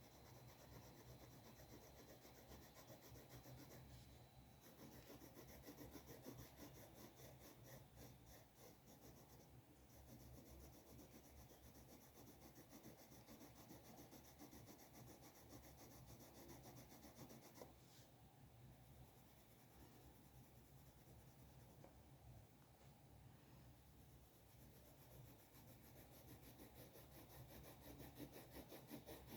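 Faint scratching and rubbing of a drawing tool moving across paper in continual strokes.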